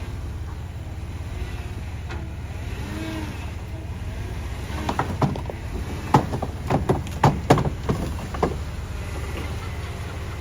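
Jeep engine running at low speed on a rock crawl, with a quick series of sharp knocks and clunks for a few seconds about halfway through.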